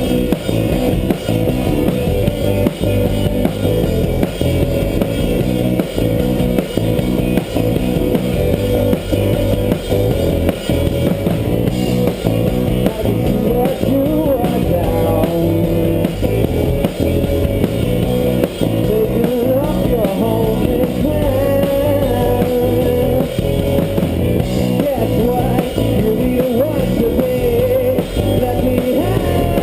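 Rock band playing live: guitar, bass and drum kit in a steady, driving beat, with a wavering melodic line coming in about halfway through.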